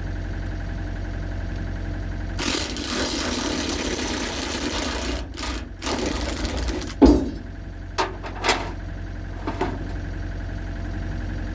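Metal clanks and knocks as the dent-pulling chain and hydraulic puller rig are moved to a new spot: a few seconds of rustling and scraping, then one sharp clank about seven seconds in and three lighter knocks. A steady low engine hum runs underneath.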